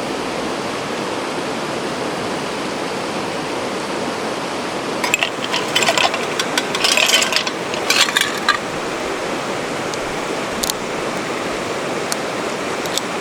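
A river flowing steadily over its bed. About five seconds in comes a run of light clinks and clicks lasting a few seconds, followed by a few single ticks.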